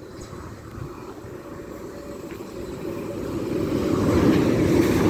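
Class 395 Javelin electric train approaching along the line. Its running rumble grows steadily louder over the second half and then holds.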